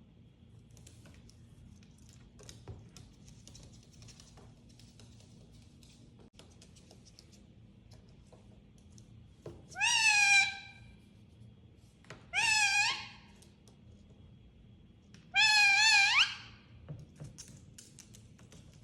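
A parrot giving three loud, drawn-out calls a couple of seconds apart, each dipping and then rising in pitch. The last call is the longest and ends in a sharp upward sweep. Faint clicks are heard between the calls.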